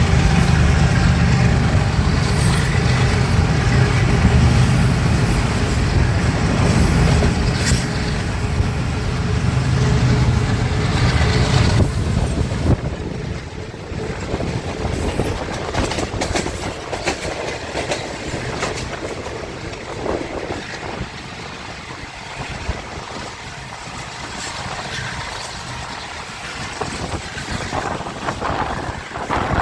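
Train passing: a heavy rumble with a steady engine hum for about the first twelve seconds, which drops away suddenly. After that comes the lighter rattle and clicking of the wagons' wheels over the track.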